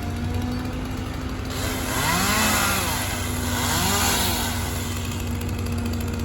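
A small engine revving up and falling back twice over a steady low engine drone.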